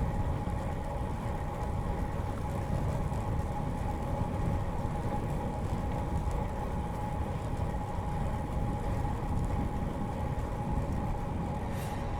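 Bicycle riding along a paved path, with a steady low rumble of wind and tyre noise and a constant hum. A brief high-pitched sound comes near the end.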